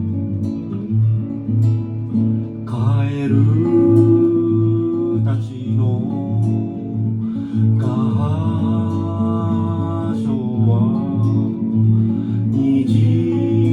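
Acoustic guitar playing a steady plucked accompaniment, with a singing voice carrying a gliding melody over it in phrases that begin about three seconds in, again around eight seconds and near the end.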